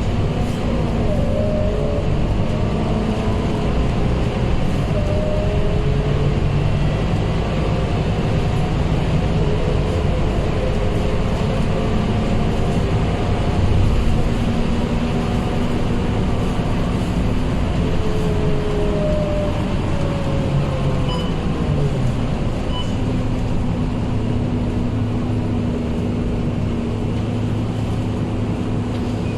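Scania K230UB city bus running along the road, its diesel engine note rising and falling a few times as it speeds up and slows, over steady road and tyre noise.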